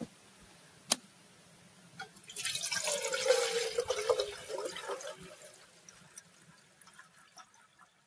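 Liquid pouring or splashing for about two and a half seconds, starting a little over two seconds in, after a single sharp click about a second in.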